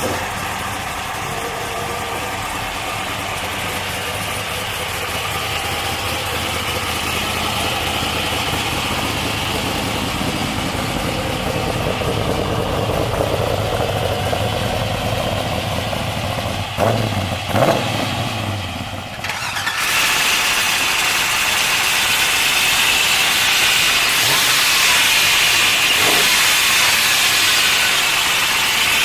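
Supercharged V8 of a custom 1970 Chevrolet Chevelle idling steadily, blipped twice in quick revs about two-thirds of the way through. It then runs on louder and with more hiss.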